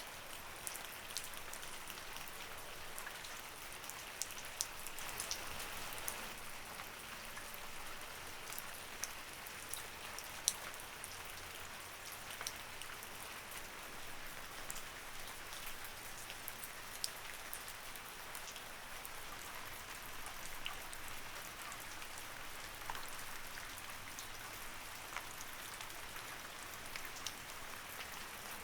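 Light rain falling steadily, an even hiss with many separate drops ticking sharply on a surface.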